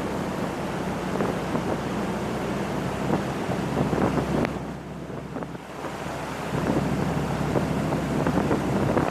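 Boat under way: a steady engine hum under wind buffeting the microphone and water rushing past, easing briefly about five seconds in.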